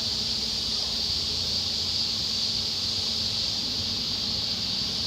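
A chorus of summer cicadas buzzing steadily as one continuous high drone, with a faint low steady hum beneath it.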